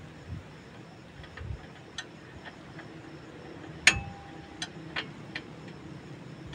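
Scattered light metallic clicks and taps from tools and brake parts being handled. One sharper clink about four seconds in rings on briefly.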